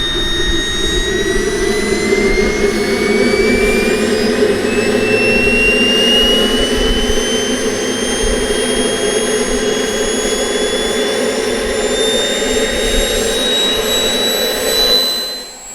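Model jet's turbine engine running with a high whine that climbs slowly and steadily in pitch over a rushing roar, as the turbine spools up. It cuts off abruptly near the end.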